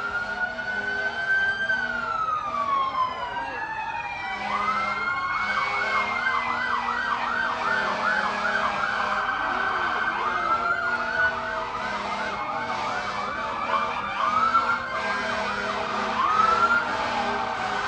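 Several police cruiser sirens sounding at once as the cars pass: slow rising-and-falling wails overlapped by a fast yelp warble that starts about four seconds in and returns near the end.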